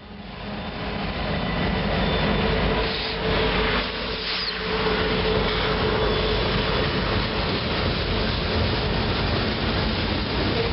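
Canadian Pacific freight train rolling past: the steady rumble and rattle of the locomotive and loaded cars on the rails, swelling over the first couple of seconds and then holding steady.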